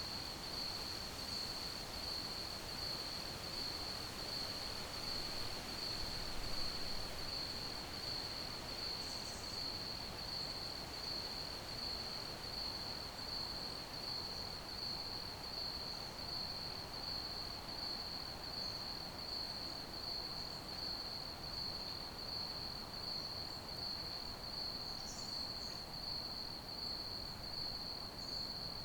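Crickets chirping in one steady, unbroken high trill over a soft background hiss.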